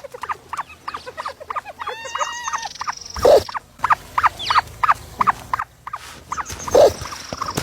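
A brood of ostrich chicks peeping: many short, quick chirps repeated several times a second. A held, multi-toned call comes about two seconds in, and two louder, lower sounds stand out about three seconds in and near the end.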